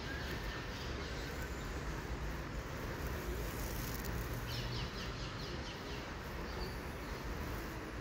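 A bird chirping: a quick run of short, high, falling chirps about halfway through. Beneath it is a steady low rumble of outdoor background noise.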